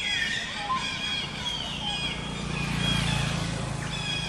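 Birds chirping in short, repeated whistled notes, some falling in pitch. A low rumble swells up about halfway through and fades near the end.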